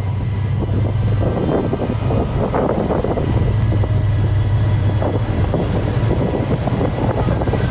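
Strong wind buffeting the microphone: a loud, steady low rumble with irregular crackling gusts.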